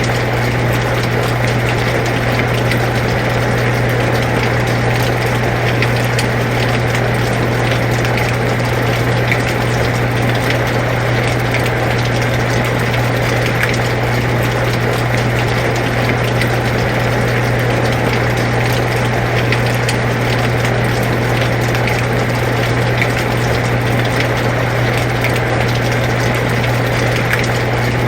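Air conditioner running with a steady low hum, under the even hiss of steady rain with scattered drop ticks.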